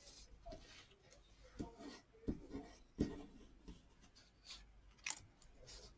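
Quiet handling of paper cardstock, rustling and being pressed down onto a card, with several light taps. The loudest taps come about two and three seconds in.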